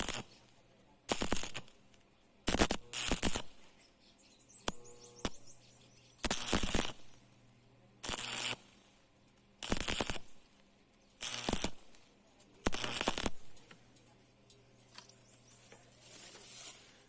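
Electric arc welding arc crackling in short bursts of about half a second to a second, one every second or two, over a steady low hum that stops about two-thirds of the way through.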